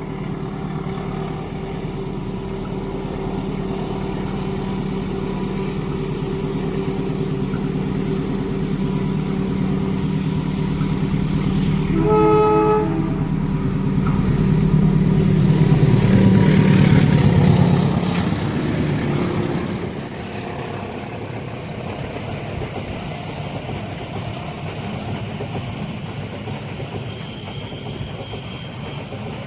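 A train approaching and passing: the locomotive's engine grows steadily louder, the horn gives one short blast a little before midway, and the sound is loudest as the locomotive goes by a few seconds later. The carriages then roll past with a steadier rumble.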